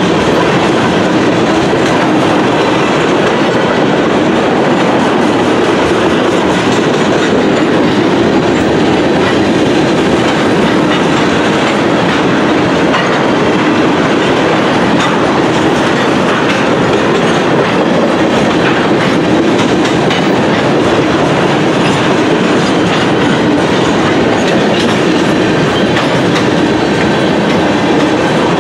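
Railroad tank cars of a long oil train rolling past close by: a steady rumble of steel wheels on the rails, with the clickety-clack of wheel sets passing over rail joints.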